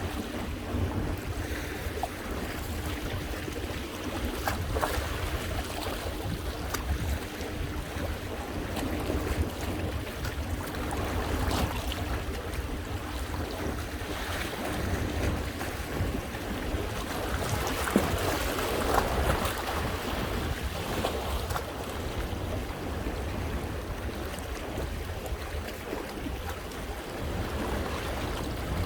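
Sea waves washing against and over coastal rocks, with wind buffeting the microphone. One wash swells up louder about two-thirds of the way through.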